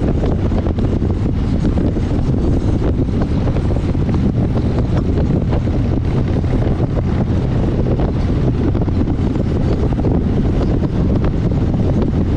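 Wind rushing over a GoPro action camera's microphone on a moving motorcycle, with the motorcycle's engine running steadily underneath. The roar is steady and heavy in the low end, with no gear changes or other events.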